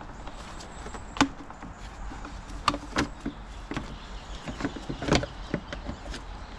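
Irregular sharp clicks and knocks of parts and tools being handled in a car's engine bay, four of them louder than the rest.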